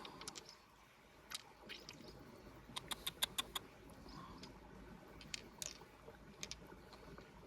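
Faint scattered light clicks and taps, with a quick run of about six clicks around three seconds in.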